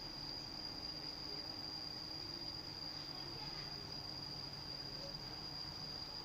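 Crickets trilling: one steady, unbroken high-pitched note.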